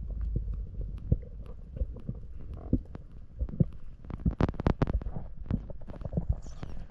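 Muffled underwater sound picked up by a camera in its waterproof housing while spearfishing: a low rumble of moving water with irregular sharp clicks and knocks, which come thickest about four to five seconds in.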